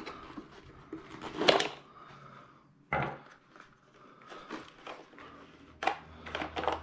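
Hard plastic RC truck parts clicking, knocking and scraping as a bulkhead is worked loose from the chassis by hand, with a louder knock about a second and a half in and a quick run of knocks near the end.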